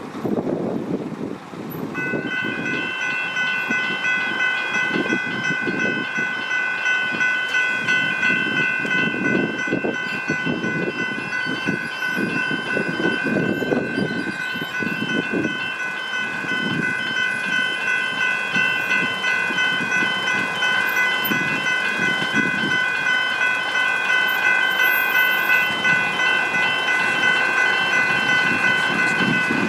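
Level crossing warning bells start ringing about two seconds in and keep up a steady, rapid pulsing ring, over a low irregular rumble of road traffic or an approaching train.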